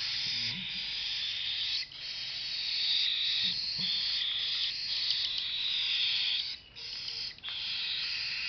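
Cockatiel chicks making their continuous raspy, hissing food-begging calls while being syringe-fed, breaking off briefly about two seconds in and again near seven seconds.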